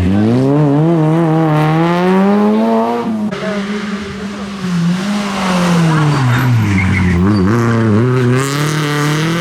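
Rally car engine accelerating hard, its pitch climbing over the first three seconds. A brief lift follows, then the engine speed falls to a low about seven seconds in as the car slows, and it climbs again near the end.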